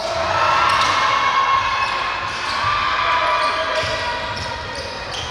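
Basketball game play: a ball bouncing on the court with sustained shouting voices from players and spectators.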